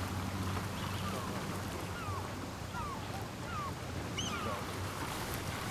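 Outdoor park ambience: a few short bird chirps, starting about two seconds in and coming about once every second or so, over a steady low hum.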